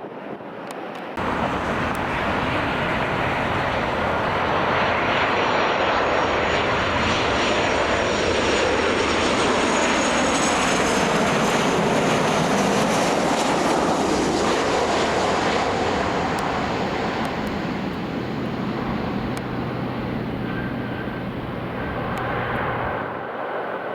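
Jet airliner passing low overhead on its landing approach. The engine noise starts abruptly about a second in, swells to a peak about halfway through with a high fan whine that sinks slightly in pitch, then slowly fades.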